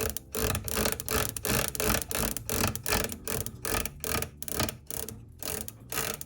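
Ignition spark snapping across the gap of an NGK iridium spark plug, fired by a Fox body ignition coil through an old Ford points distributor. It gives a run of sharp, irregular clicks, roughly four a second, as the distributor is turned by hand.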